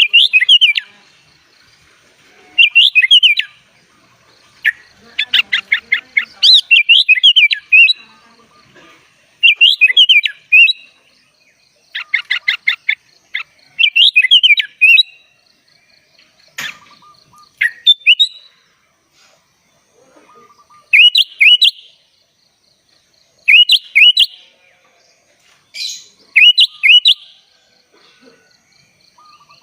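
Sooty-headed bulbul (kutilang) singing in full voice: short bubbly whistled phrases repeated every two to three seconds. Twice, about five and twelve seconds in, it breaks into fast runs of rapidly repeated notes.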